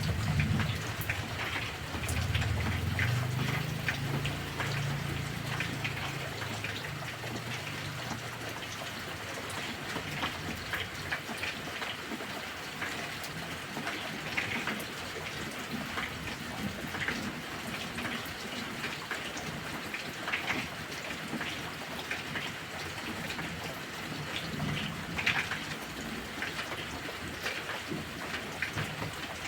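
Steady heavy rain, drops pattering on a surface, with a low rumble of thunder that dies away over the first several seconds.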